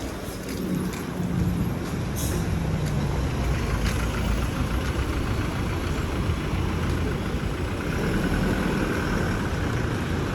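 Street traffic: a large motor vehicle's engine running by, over the general rumble of the road, with a short hiss about two seconds in.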